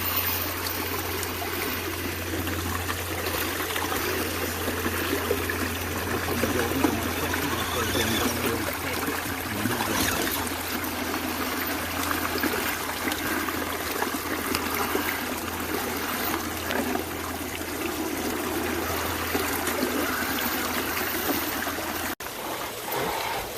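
Running water of a small stream, trickling steadily, with a brief break near the end.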